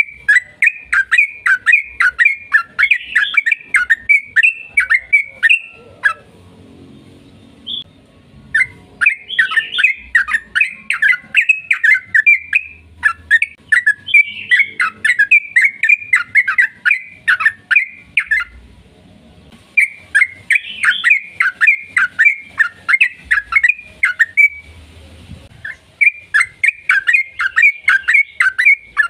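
Yellow-vented bulbul (trucukan) singing its long, rapid chattering song: fast strings of about five or six sharp notes a second, in runs of four to six seconds with short pauses between.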